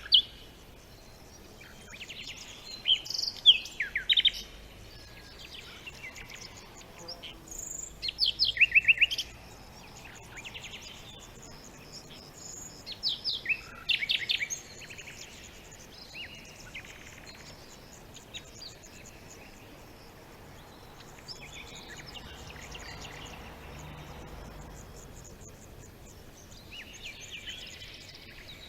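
Songbirds chirping and singing, with three loud bursts of quick repeated notes about two, eight and thirteen seconds in, and softer scattered chirps between. A faint high ticking runs under the later part.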